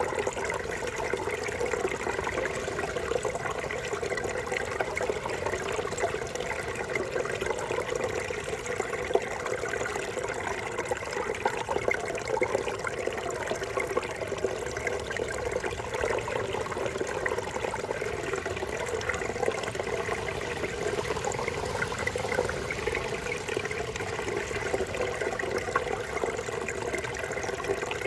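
A brook babbling over rocks: a steady, unbroken rush and gurgle of running water.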